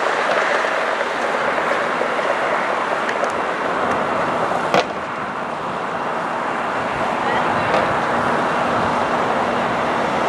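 Jet airliner engine noise, a steady loud rushing sound, with one sharp click a little under halfway through.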